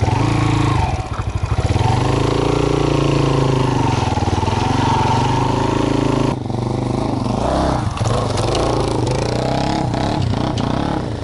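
Trail motorcycle engine running under changing throttle, its pitch rising and falling as the revs go up and down; about six seconds in the hiss above the engine drops away briefly.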